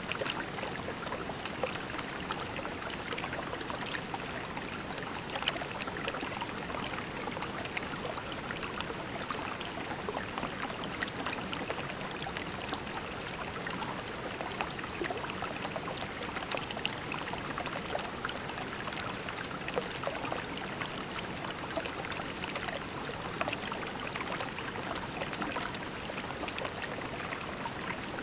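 Creek water flowing steadily over pebbles: a continuous babbling and trickling, with many small splashes and drips in it.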